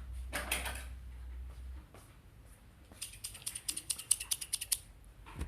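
A short rustle about half a second in, then a rapid run of small sharp clicks, about ten a second, for nearly two seconds, like a small ratchet or mechanism being worked.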